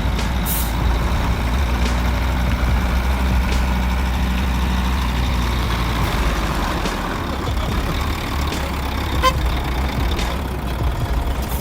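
A heavy truck's engine running steadily with a low rumble, plus a brief high chirp about nine seconds in.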